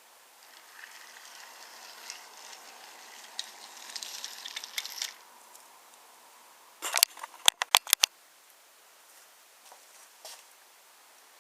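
Wooden toy train rolling along wooden track, a light rattle with clicks over the joints, then a quick run of sharp wooden clacks about seven seconds in.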